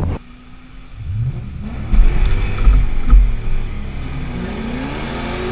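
A race car's engine revving up and falling back several times as it is driven hard on an autocross course, with heavy low thumps about two to three seconds in.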